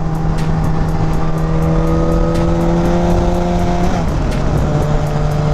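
Yamaha FZ1's inline-four engine running at steady cruise, its pitch creeping slightly upward and then dipping briefly about four seconds in, under heavy wind rush on the helmet-mounted microphone.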